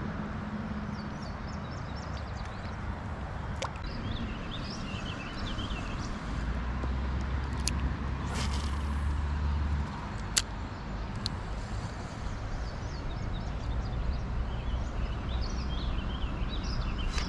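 Outdoor creekside ambience: a steady rushing noise over a low rumble, with small birds chirping on and off and a couple of sharp ticks about 8 and 10 seconds in.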